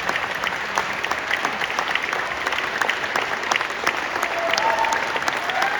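Audience applauding, a dense steady clapping, with a voice whooping briefly near the end.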